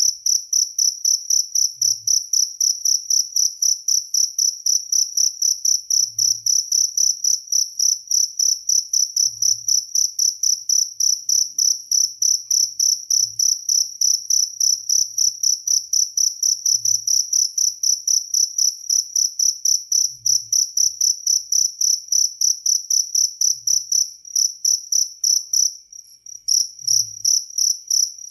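A Jaliteng cricket chirping steadily in a rapid, even train of high-pitched pulses, several a second, briefly faltering near the end.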